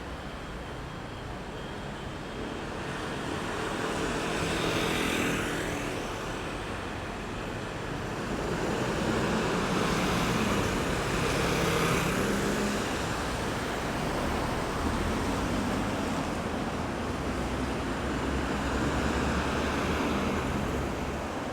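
Road traffic at a roundabout: cars and heavier vehicles pass one after another, engine and tyre noise swelling and fading. The loudest passes come about four to six seconds in and again around ten to twelve seconds in.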